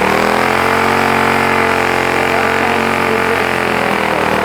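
Fully built Mega Moto 212 mini bike's single-cylinder engine revving up over the first half second, then held at a steady high rpm.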